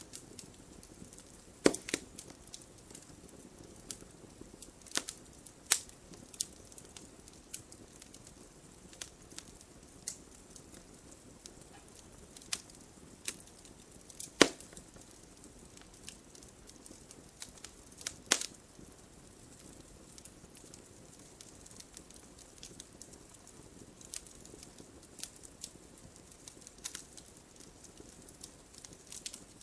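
Wood fire burning in a fireplace, crackling with irregular sharp pops over a soft low hiss of flame; the loudest pops come about 2 seconds in, midway and a few seconds after.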